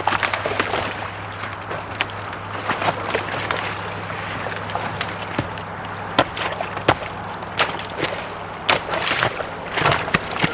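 River water splashing and sloshing around a canoe, with many irregular knocks and clatters, over a steady low hum.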